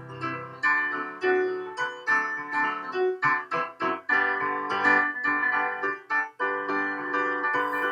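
Background piano music: a quick, continuous run of struck notes and chords.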